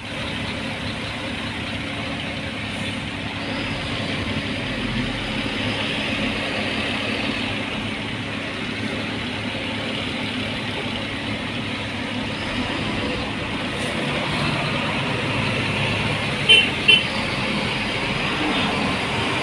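Steady truck engine and road noise, with two short high-pitched beeps in quick succession about three-quarters of the way through.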